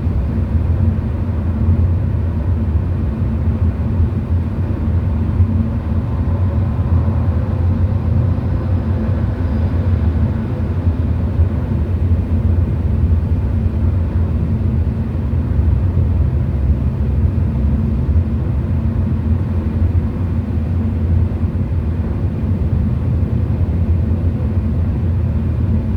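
Steady low rumble of road travel heard from inside a moving car's cabin: engine and tyre noise at an even cruising speed.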